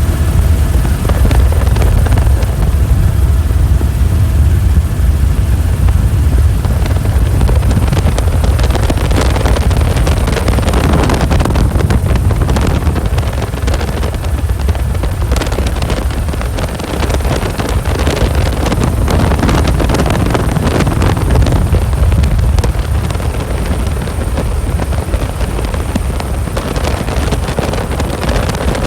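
A helicopter in flight, heard from aboard: a loud, steady low drone of rotor and engine. From about eight seconds in, gusty wind noise buffets the microphone.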